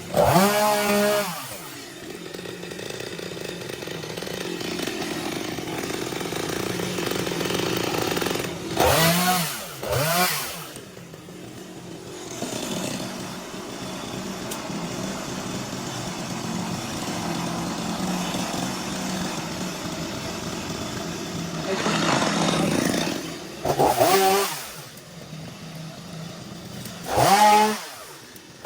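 Small petrol engine of a garden power tool running steadily under load, revved up sharply about five times (right at the start, twice around the middle, and twice near the end), each rev falling away again.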